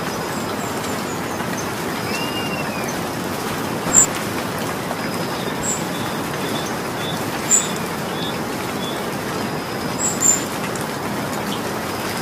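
Steady rainfall hiss, with three sharp louder ticks of drops hitting something. A bird calls about two seconds in and gives a run of short chirps midway.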